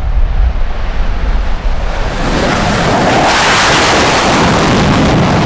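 Fighter jet engine noise swelling from a low rumble to a loud, full-spectrum jet blast about two and a half seconds in, with wind buffeting the microphone.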